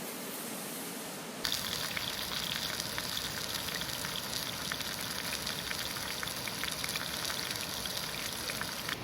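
Wood campfire crackling and hissing, with many small irregular pops. It comes in abruptly about a second and a half in, after a steady even hiss.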